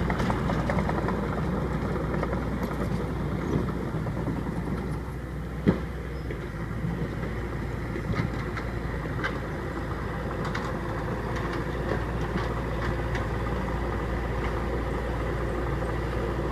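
A motor vehicle engine running steadily at a low rumble, with one sharp click about six seconds in and a few fainter ticks.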